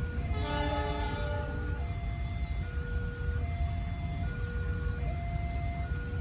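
Railway level-crossing warning alarm sounding, two electronic tones alternating high and low about every second, over a steady low rumble. Near the start a multi-note horn chord sounds for about a second and a half.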